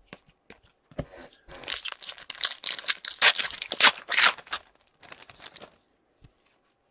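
A hockey card pack's wrapper being torn open and crinkled: a dense run of ripping and crackling in the middle, then a few lighter rustles and clicks.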